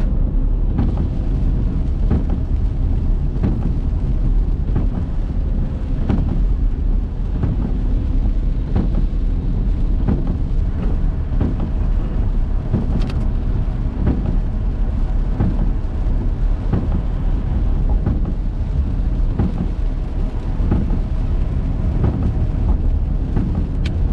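A car driving in the rain: a steady low rumble of engine and road noise, with scattered ticks of raindrops striking the car.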